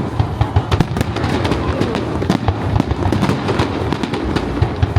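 Fireworks display: a rapid, irregular string of sharp bangs and crackles over a constant low rumble.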